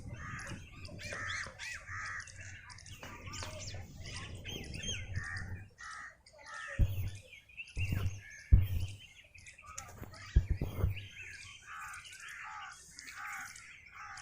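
Outdoor birds chirping and calling repeatedly, among them harsh caws. Several sharp low thumps come in the middle, the loudest sounds present.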